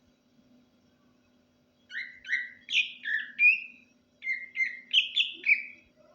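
Cucak ijo (green leafbird) singing softly: two quick phrases of short whistled notes, some sliding up or down, with a short pause between them. A faint steady hum runs underneath.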